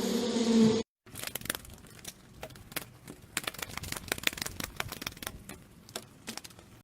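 A bee's steady buzz with a low hum, cut off abruptly about a second in. Then a brief gap, followed by faint, irregular clicking and crackling, sharp ticks spaced unevenly.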